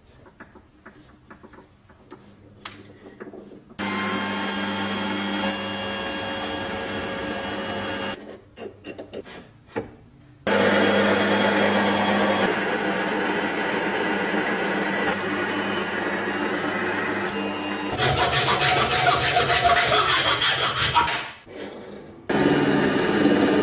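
Abrasive work on metal parts: long stretches of steady scraping and rubbing, with a fast rhythmic stretch near the end, broken by quieter moments of small clicks and taps. The sound changes abruptly several times.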